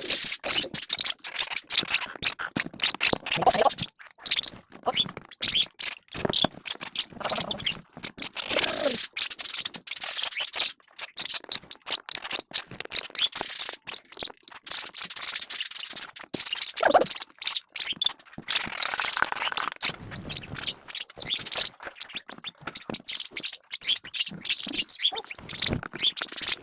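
African lovebird being hand-fed: rapid, irregular clicks and scrapes of its beak working at the food.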